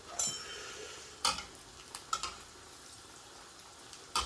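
Breaded chicken fillet shallow-frying in oil in a frying pan, a steady sizzle, with a few sharp clicks of a utensil against the pan, the loudest about a second in and near the end.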